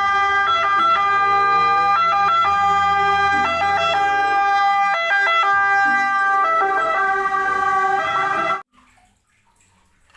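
Toy ambulance's electronic sound chip playing a siren, its tones stepping between pitches, then cutting off suddenly near the end.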